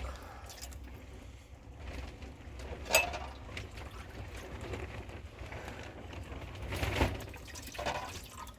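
Water splashing and being poured, with a sharp knock about three seconds in and another around seven seconds, over a low steady rumble.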